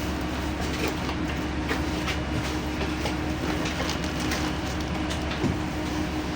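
Inside a LiAZ-5292 low-floor city bus under way: the steady drone of the engine and tyres with a constant hum, and the body panels and fittings rattling and clicking lightly.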